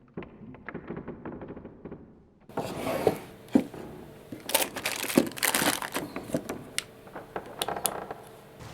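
Rustling, crinkling and clicking of objects being handled, with a few sharper knocks; the first couple of seconds are muffled, then the sounds get brighter and louder.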